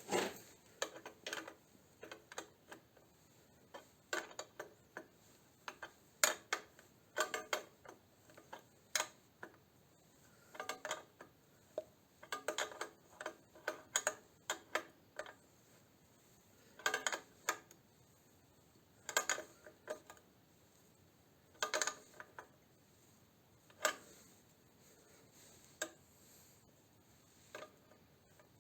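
Tools and metal parts being handled on a workbench: irregular sharp clinks and taps, some in quick clusters, with long gaps between them.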